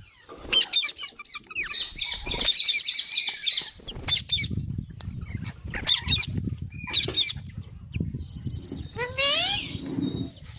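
Green parrot squawking in a string of sharp, short calls, with wings flapping between them. About nine seconds in comes a quick series of rising calls.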